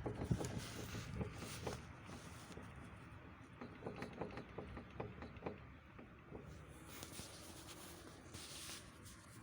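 Irregular light knocks and clicks from the front steering of a ZAZ Tavria, the front-suspension knock. It comes from play at a loosened steering bolt.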